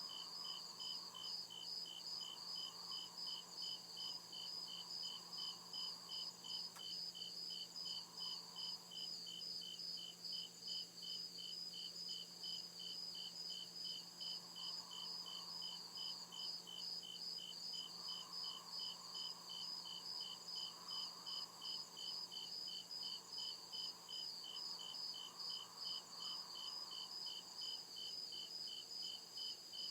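Crickets chirping in a steady, evenly spaced rhythm of high chirps that keeps on without a break.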